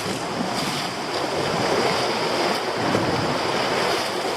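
Heavy swell surging and breaking against rocks and the boat, with wind buffeting the microphone, a steady rushing noise.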